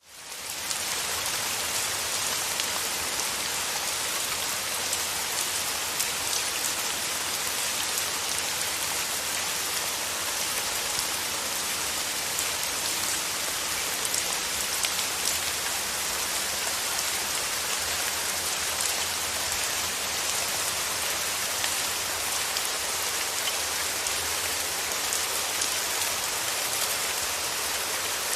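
Steady rain: a dense, even hiss of falling drops with faint individual drop ticks, swelling in from silence within the first second.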